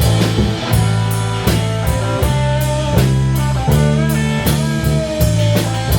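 Instrumental break of a blues-rock song: guitar lines over held bass notes and a steady drum beat, with no singing.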